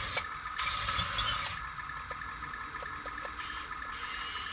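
Mini radio-control toy tank's small electric motors and plastic gearbox whirring steadily, with a few faint clicks.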